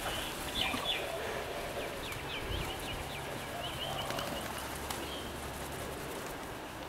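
Bird calls: a few short high chirps and a brief trill over steady outdoor background noise, with a faint low hum in the middle.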